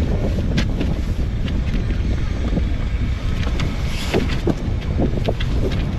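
Strong wind buffeting the microphone in a steady low rumble, with scattered short clicks and slaps over it.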